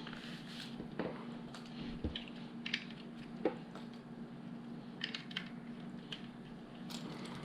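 Scattered light clicks and clatter of plastic LEGO bricks being handled and pressed together, irregular and a few a second at most, over a faint steady hum.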